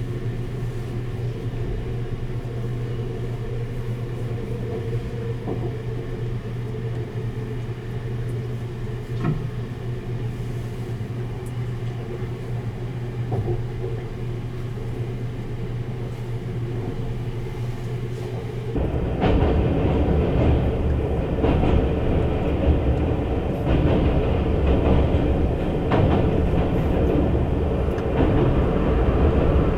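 Sunrise Express sleeper train running, heard from on board: a steady running hum with a constant low tone, which abruptly grows louder and rougher about two-thirds of the way through, with more rumble and rattle.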